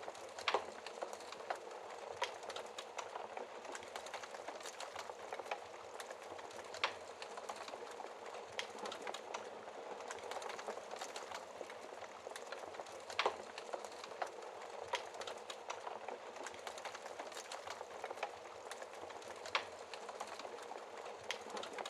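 Wood fire in a fireplace crackling steadily, with a constant fizzing crackle and a few louder sharp pops every several seconds.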